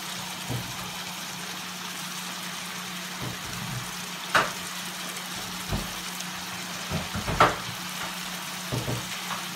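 Seafood and chicken pieces sizzling steadily in an oiled frying pan, with two sharp taps about four and seven seconds in, as of a utensil or jar against the pan.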